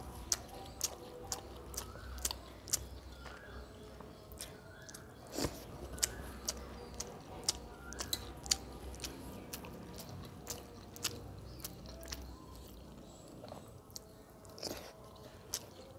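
Close-up eating sounds: wet mouth clicks and smacks from chewing rice and fish curry eaten by hand, with fingers squishing the rice on a steel plate. The clicks are sharp and irregular, about one or two a second.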